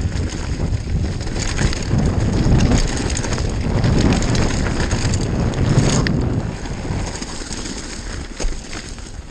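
Downhill mountain bike riding a rough, stony trail: wind buffeting the microphone over the rumble and rattle of tyres and bike on rocks. It eases off after about six seconds as the bike slows.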